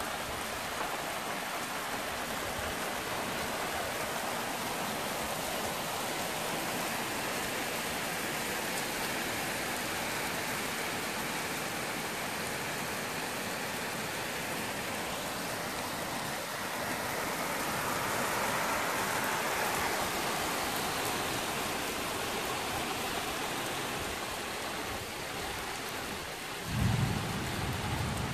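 Heavy rain pouring steadily, with a short low rumble of thunder near the end.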